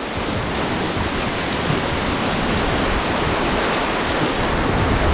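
Whitewater rapids rushing, a loud, steady wash of churning river water.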